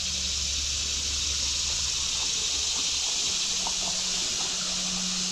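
Steady hiss of creek water running, with a few faint clicks in the middle.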